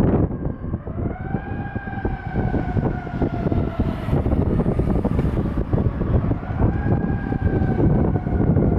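Siren of a 2020 Pierce Enforcer 100' tractor-drawn aerial fire truck responding, winding up and then slowly falling in pitch, twice, over the heavy rumble of the passing truck.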